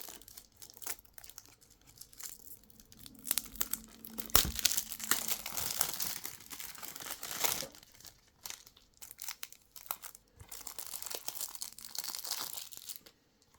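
Plastic shrink-wrap on a Blu-ray case being torn open by its tear strip and crinkled by hand, in irregular crackling bursts, loudest about four to five seconds in.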